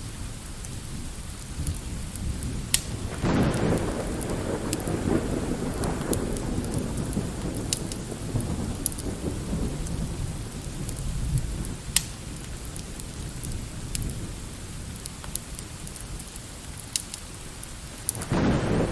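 Light rain falling steadily, with rolling thunder that swells about three seconds in and fades away over several seconds, and another rumble starting near the end. Sharp crackles of a wood fire pop here and there.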